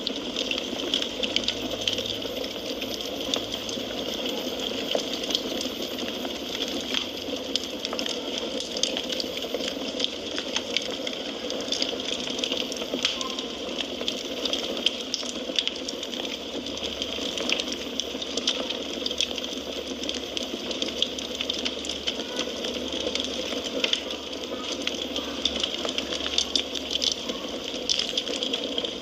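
Wood fire crackling steadily: a constant hiss with many quick, irregular pops and snaps.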